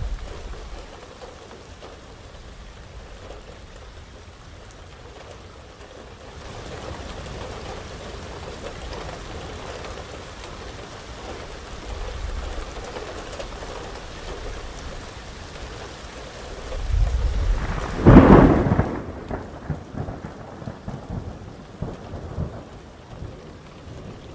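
Heavy rain falling steadily under rolling thunder. Low rumbles swell a couple of times, then a sharp thunderclap, the loudest sound, breaks about three-quarters of the way through and trails off into uneven rumbling.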